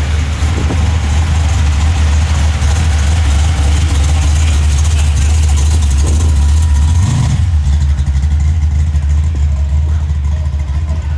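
Car engine running steadily at low revs with a deep rumble; about seven seconds in the hiss above it drops away while the rumble carries on.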